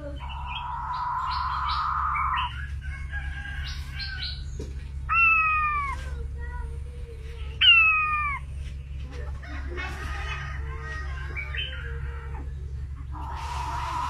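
Caged puyuh denok calling: a long buzzy trill, then two loud falling whistled notes about two and a half seconds apart, scattered chirps, and another buzzy trill near the end.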